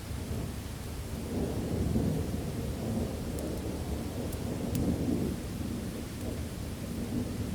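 Low rolling thunder rumbling over steady heavy rain, swelling twice, with a few faint sharp ticks.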